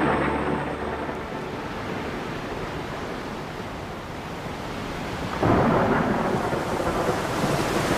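Tropical rainstorm: steady heavy rain with thunder. About five and a half seconds in comes a sudden, louder rumble of thunder.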